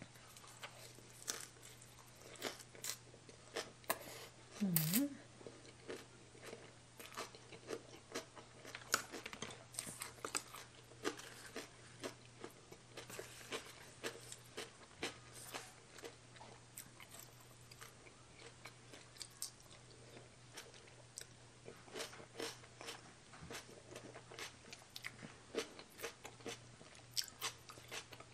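Close-up mouth sounds of eating a spicy baby cuttlefish salad wrapped in fresh leaves: crisp crunching and wet chewing, with many small irregular clicks and smacks. A short, loud vocal sound about five seconds in.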